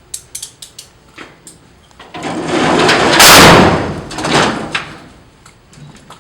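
Heavy jail-cell door sliding shut: a loud rolling rush that builds for about a second, peaks and fades over about three seconds, with a few metallic clicks and clanks around it.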